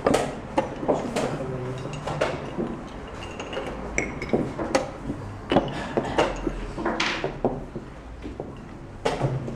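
Chess pieces clicking and knocking as they are picked up, set down and bumped together on the board, in an irregular run of sharp clacks.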